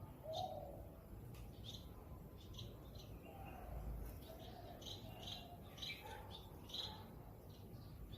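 Small songbirds chirping: a run of short, high chirps, several a second, with softer lower notes in between.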